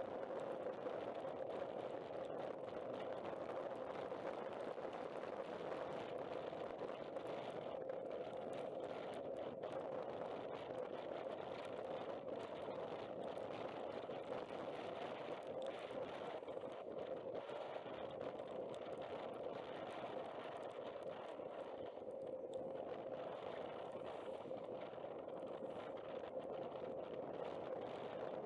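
Benelli Zafferano 250cc maxiscooter riding along, its engine and the wind noise heard muffled, with a steady drone that wavers slightly.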